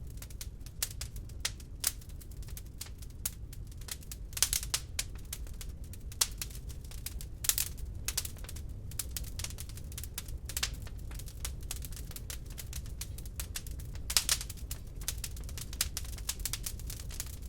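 Wood log fire crackling in a fireplace: a steady run of irregular small snaps with a few louder pops, over a low steady rumble of the flames.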